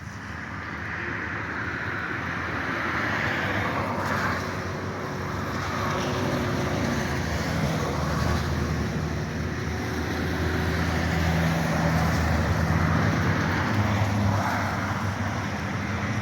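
A car running on the road: steady engine hum with road and tyre noise, growing louder over the first few seconds and then holding.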